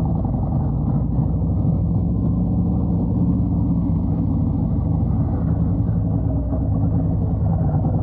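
Harley-Davidson Road Glide's V-twin engine running at a steady cruise while riding on the road.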